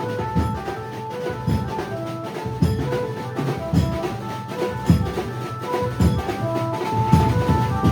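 A Maharashtrian banjo band playing: a melody of short held notes on the electric Indian banjo over steady drum beats.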